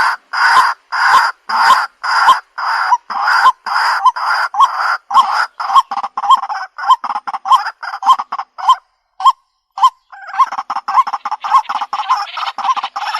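White-breasted waterhen calls repeated in a steady, quickening series of loud croaking notes, about two a second at first. After a short break about nine seconds in, they come back denser and overlapping.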